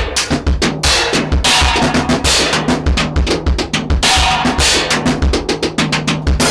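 Drum kit played in a fast, busy pattern, raw and unprocessed: kick drum thumps under snare hits, with washing cymbals for a second or two at a time.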